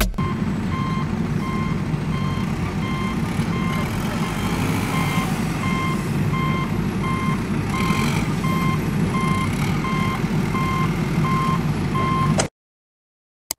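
Truck reversing alarm beeping about once a second over a steady engine rumble, then cutting off suddenly near the end.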